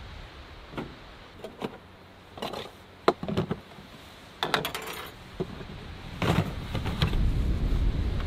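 Scattered clicks, knocks and rattles, like things being handled, with a low rumble growing louder from about six seconds in.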